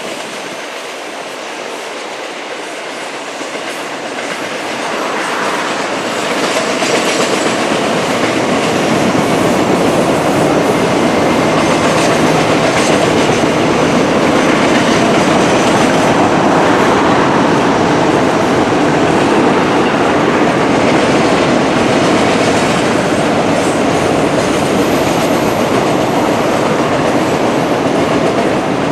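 Norfolk Southern Roadrailer train rolling past: its railcar wheels running over the track in a steady rush of noise that grows louder over the first several seconds, then holds.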